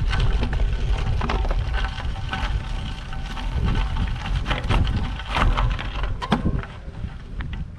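Bicycle tyres crunching over a gravel road, a dense irregular crackle over a low wind rumble on the microphone.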